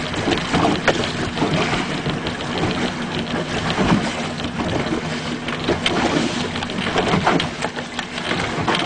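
Small boat's outboard motor running steadily, with wind buffeting the microphone and water splashing against the hull.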